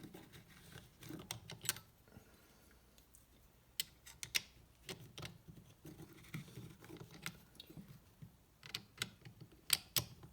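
Irregular small clicks and light knocks from hands handling tools and parts, a dozen or so scattered sharp ticks with soft handling noise between them.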